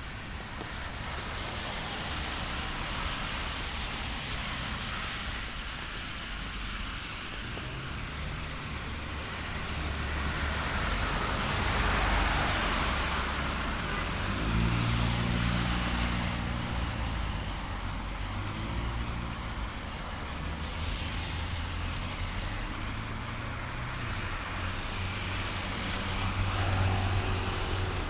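Street traffic in the rain: cars swishing past one after another, their tyres hissing on the wet road, over a steady hiss of rain. About halfway through, a heavier vehicle's engine comes in with a low hum and stays to the end.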